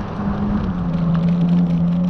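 Wind and road noise of a moving bicycle ride, with a low hum that dips slightly in pitch about half a second in and then slowly rises.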